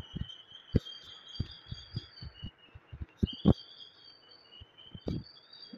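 Close-miked mouth sounds of chewing and swallowing clay: irregular soft thuds and small clicks, a few to a second, with a stronger pair about three and a half seconds in and another near the end.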